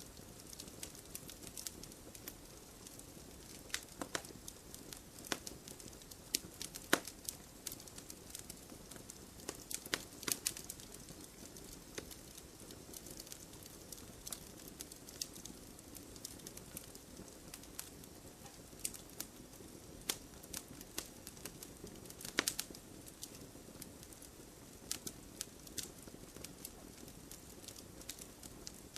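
Wood fire burning in a fireplace: a soft hiss of flames with irregular crackles and pops from the logs, a few of them louder.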